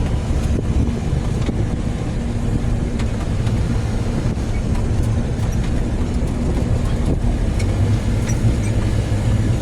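A car driving along a road: a steady engine hum with road noise.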